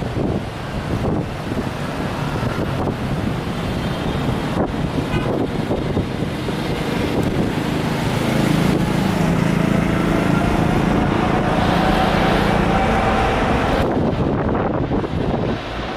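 Jet airliner engines running at an airport, heard through heavy wind buffeting on the microphone, with a faint engine whine that rises slightly and a heavier rumble partway through.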